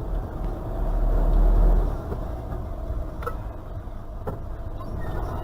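A car driving: steady low engine and road rumble, louder for the first two seconds, with two faint clicks about three and four seconds in.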